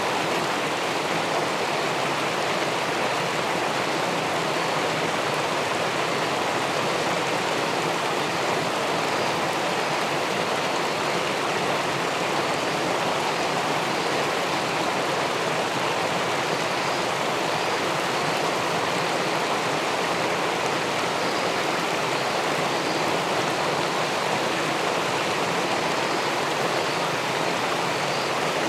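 Steady, even rush of river water spilling over a check dam into the pool below, heard through a camera submerged in the water.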